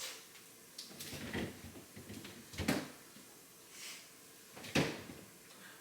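Things being handled in a refrigerator while it is cleared out: a few separate knocks and clatters, like fridge drawers, shelves or containers being moved, with light rustling between; the loudest knock comes near the end.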